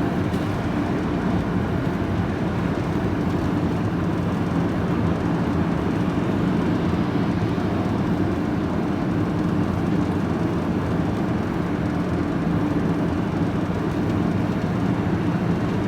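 Steady engine and road noise inside a van's cab while driving at an even pace, a constant low hum with no changes.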